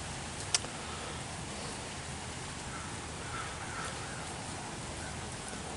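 Light rain falling on wet pavement and grass, a soft, even hiss, with a single sharp click about half a second in.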